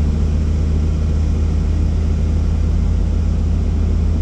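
Helicopter running steadily in flight: a loud, even drone of turbine and rotor, with a fast regular pulse low down from the blades.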